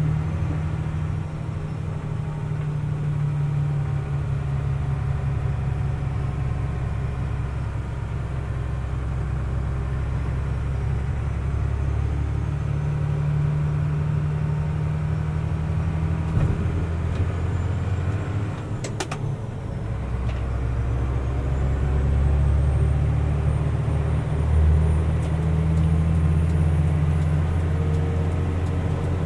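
Mercedes-Benz Unimog U500's turbo-diesel engine running steadily under way, a low drone heard from inside the cab. About two-thirds of the way in the engine note drops briefly with a sharp click, then builds again.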